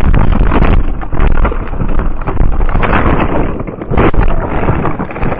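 Loud, distorted rumble and wind buffeting on a car camera's microphone, with several sharp knocks.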